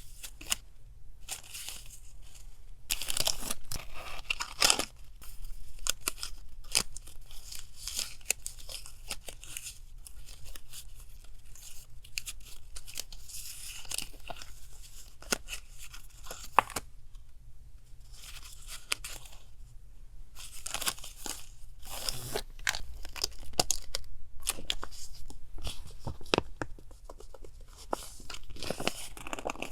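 Paper stationery and its packaging handled close up: crinkling, rustling and tearing in irregular bursts with short pauses between.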